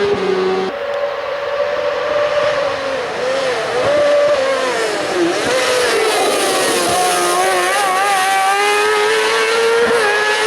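Race car engine at full throttle on a hill climb. About a second in the sound changes abruptly. The engine pitch then dips and climbs several times, and holds high and steady near the end.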